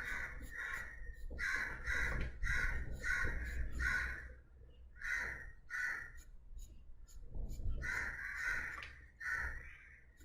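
Crows cawing again and again, about a dozen short caws with a brief pause past the middle.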